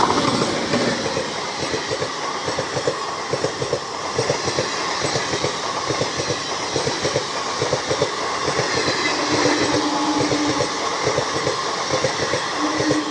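A passenger train running through a station, its wheels clattering rapidly and continuously over the rail joints. A brief steady tone sounds over the clatter about ten seconds in.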